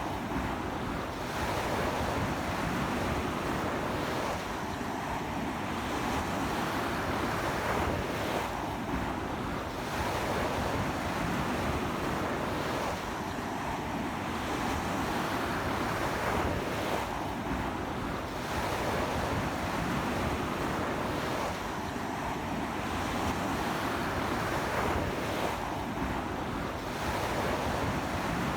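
Surf breaking on a sandy beach in a strong sea wind, a continuous rush that swells and eases every four or five seconds, with wind buffeting the microphone.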